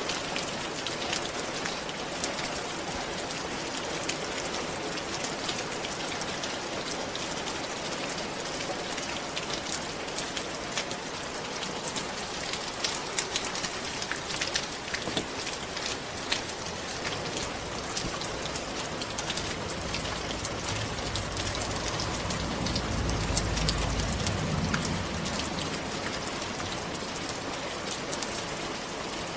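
Steady rain falling on a roof, with many individual drops ticking through the even hiss. A low rumble swells briefly about two-thirds of the way through.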